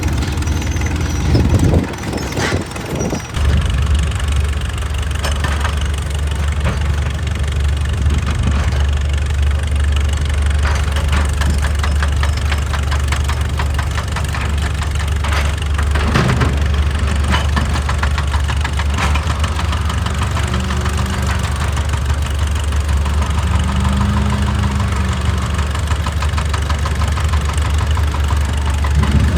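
Excavator engine running steadily with a deep drone, broken by a few sharp knocks, a cluster about two to three seconds in and another around sixteen seconds in.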